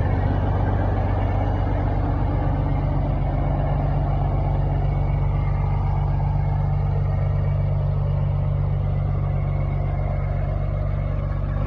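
Peterbilt 359 truck's diesel engine running steadily at a constant speed, a deep, even drone.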